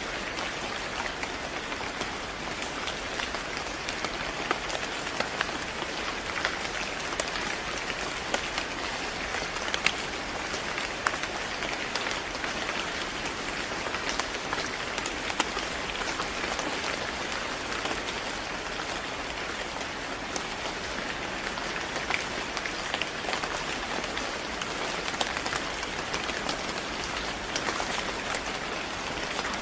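Steady rain falling on a surface, an even hiss with many scattered individual drop ticks.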